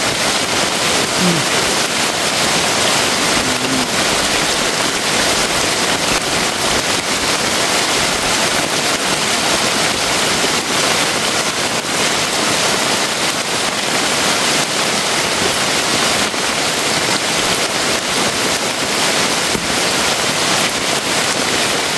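Heavy rain pouring steadily on bamboo foliage and a leaf-thatched shelter: a dense, even hiss with no let-up.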